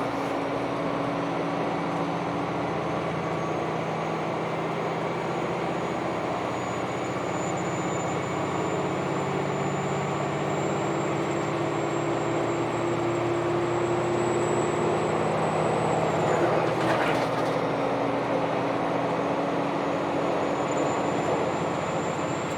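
A KiHa 261 series diesel railcar running along the line: a steady diesel engine hum under continuous wheel and rail noise, with a thin high whine above it. A brief louder rush comes a little past two-thirds of the way through.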